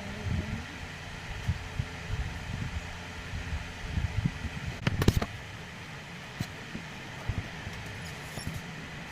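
Eating sounds at a meal: irregular soft knocks and handling noises, with one sharp click about five seconds in, over a steady fan-like hum.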